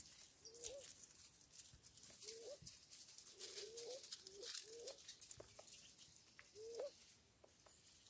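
A bird's faint, short, low calls, each a quick upward-hooked note, repeated about once a second, over light high-pitched ticking.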